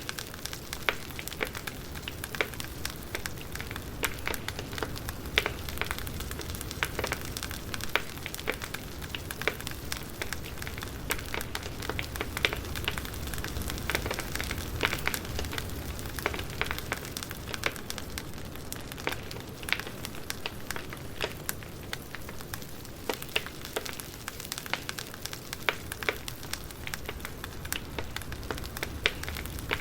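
Wood fire crackling: a steady low rumble of burning logs with frequent sharp, irregular pops and snaps.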